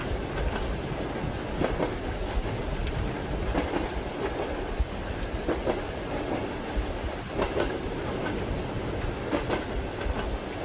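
Train wheels clacking over rail joints under a steady rumble of the moving carriage, with rain falling. The knocks come irregularly, about one to two a second.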